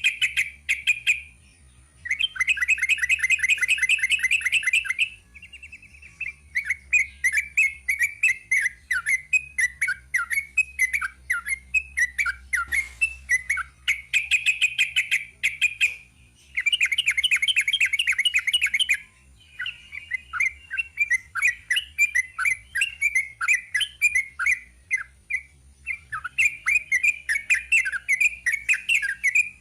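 Yellow-vented bulbul (trucukan) singing a long, unbroken run of quick chattering notes. Dense rapid trills come in bursts of two to three seconds, three times, near the start, about halfway and about two-thirds through.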